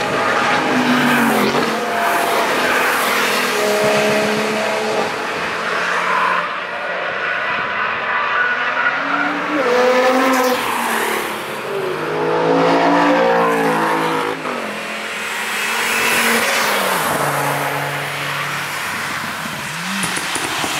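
Audi sports cars, among them an R8, running hard past the track edge one after another: engines revving up through the gears, the pitch rising and falling as each car comes and goes, with a stretch where two engine notes overlap.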